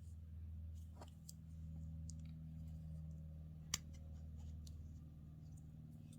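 Faint, scattered small clicks and ticks, with one sharper click a little past halfway, over a low steady hum.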